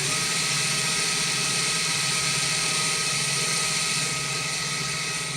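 Electric drill running steadily at speed, spinning a jute-wrapped wire as yarn is wound onto it to build a bird neck form. A steady motor whine that gets slightly quieter near the end.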